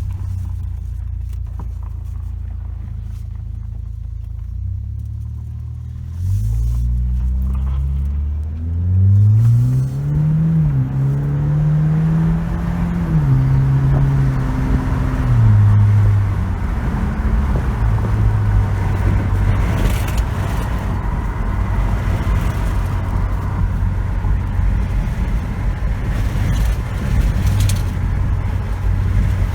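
Turbocharged 1.5-litre EcoBoost four-cylinder of a 2018 Ford Escape, with an aftermarket free-flow intake and high-flow exhaust, running low at first. About six seconds in it is put under hard acceleration: the engine note rises, drops at a gear change, rises again, then falls back. It then settles into a steady cruise with road noise.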